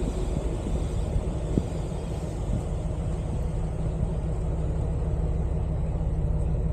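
Off-road vehicle's engine running at a steady low pitch while driving, a continuous drone with a couple of faint knocks about a second and a half in.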